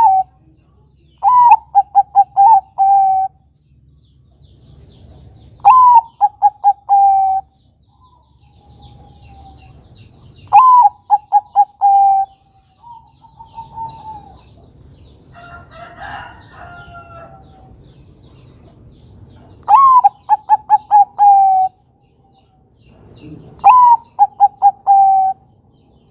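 Bangkok-type perkutut (zebra dove) cooing its song: five loud phrases a few seconds apart, each a higher opening note, a quick run of short staccato coos and a drawn-out final coo. Fainter, unclear sounds fill the gaps between phrases.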